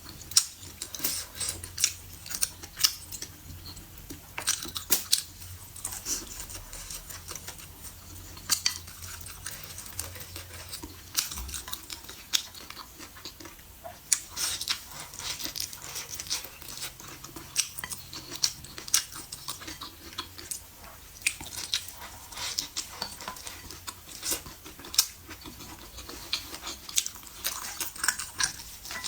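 Close-miked mukbang eating sounds: wet chewing and mouth clicks, dense and irregular throughout.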